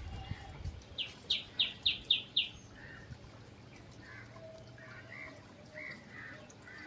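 Small birds chirping: a quick run of six high chirps about a second in, then softer, scattered calls.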